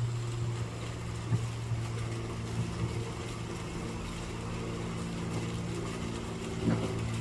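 An engine running steadily with a low, unchanging hum.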